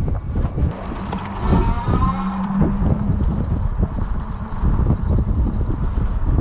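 Wind buffeting the microphone, with a loud, uneven low rumble throughout and faint voices in the background.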